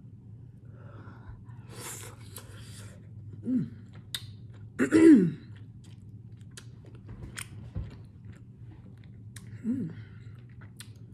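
Close-up chewing and mouth sounds of a person eating rotisserie chicken in sauce: wet smacks and clicks throughout. Three short falling vocal sounds come in between, the loudest about five seconds in.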